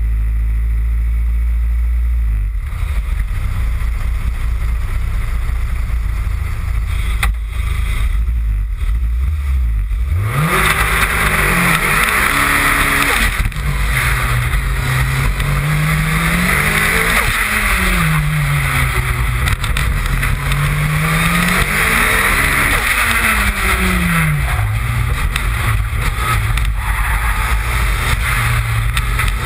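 Toyota Celica GT4 (ST185) engine, a turbocharged 2.0-litre four-cylinder, running low and steady, then about ten seconds in pulling away hard and driven flat out, its revs rising and falling over and over, with rushing wind and road noise on the bumper-mounted microphone.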